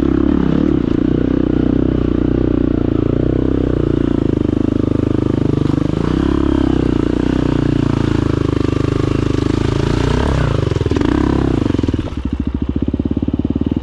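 Enduro dirt bike engine running with wavering revs, dropping to a lower, evenly pulsing idle about twelve seconds in.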